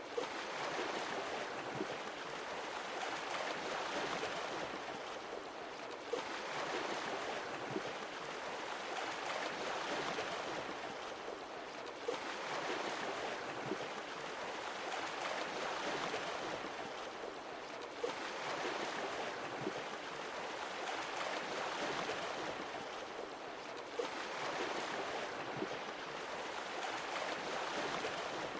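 Sea waves washing in and drawing back, the wash swelling and easing about every six seconds.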